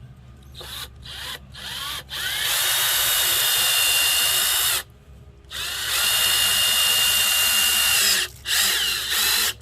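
Power drill working into 2x4 wood, run in bursts: a few short blips, then two long runs of about two and a half seconds each with a brief pause between, and a short final burst near the end. Its whine rises as the motor spins up at each start.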